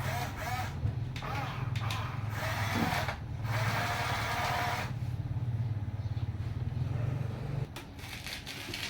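Electric motors and gearboxes of a remote-control toy construction vehicle whirring, with several louder bursts of whining motor and gear noise. The low motor hum cuts off suddenly near the end.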